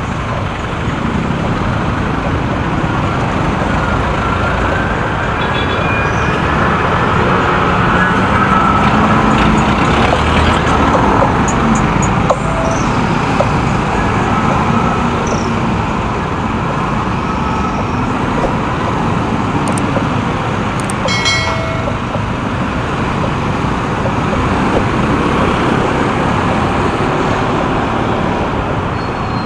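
Riding a motorcycle in city traffic: steady engine and road noise, the engine pitch rising and falling with the riding, with surrounding traffic and a few brief high-pitched beeps.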